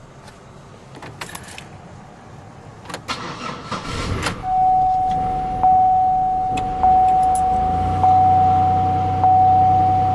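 Keys jangling and clicking at the ignition, then a 2008 Pontiac Grand Prix's 3.8-litre Series III V6 cranks briefly and catches on a cold start at about 31°F. A warning chime dings about once a second while the engine settles into idle.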